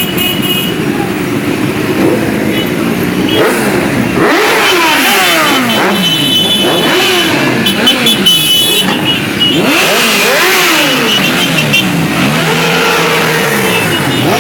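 A crowd of motorcycles running together, a dense engine rumble that gives way about four seconds in to engines being revved again and again, their pitch rising and falling in overlapping sweeps.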